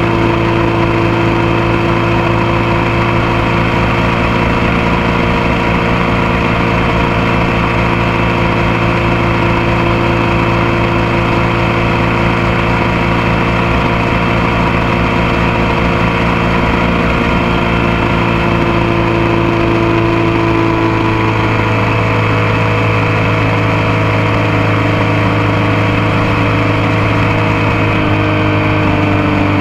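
Motorcycle engine running at a steady cruise under a constant rush of noise. Its note drops a little in pitch about two-thirds of the way through and again near the end.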